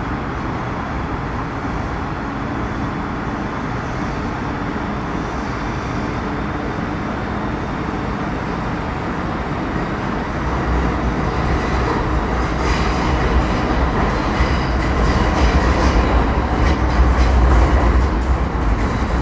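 Running noise inside a Metro Cammell M-Train electric multiple unit with a GEC GTO chopper: a steady rumble from the wheels and traction equipment. About halfway through it grows louder and rougher, with a heavier low rumble and scattered sharp clicks from the wheels and track.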